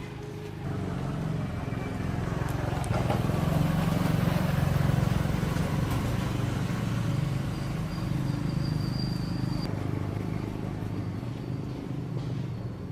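An engine running steadily with a low, throbbing sound, growing louder about a second in and fading slowly toward the end.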